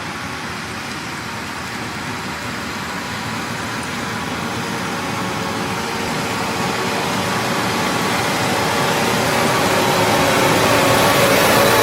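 A motor vehicle running, a steady rushing engine noise that grows gradually louder.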